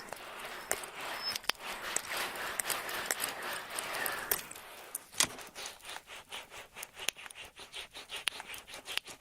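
Ear pick scraping and rubbing in an ear close to the microphone: a scratchy rubbing for the first half, then a sharp click and a run of quick, light scratches, several a second.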